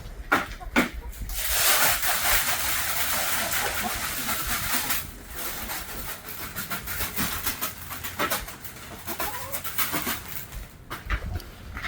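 Chickens clucking and cooing in the coop, with a few seconds of loud rustling and scraping early on, then scattered knocks and clicks of cleaning work.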